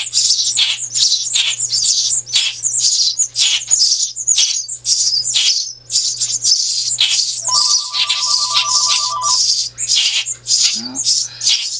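Baby birds begging for food with a continuous stream of rapid, high-pitched chirps. For about two seconds in the middle, a phone's ringtone sounds as one steady electronic tone under the chirping.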